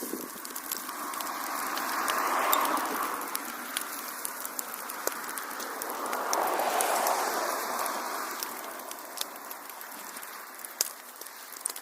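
Wood fire crackling, with scattered sharp pops and snaps over a steady hiss; twice a rushing noise swells up and fades, about two and a half seconds in and again around seven seconds.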